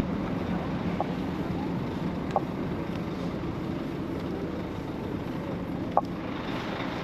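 Steady road noise of a vehicle driving, an even rumble and hiss, with three short clicks about one, two and a half, and six seconds in.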